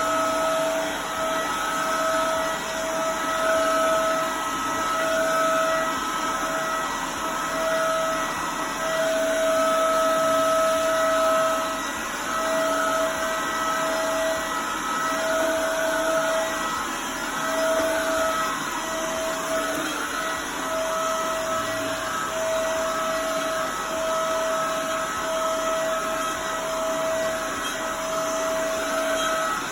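A vacuum cleaner running continuously over a dog-hair-covered rug. It gives a steady motor whine with a high tone that flickers in and out, and its loudness rises and falls a little as it is pushed back and forth.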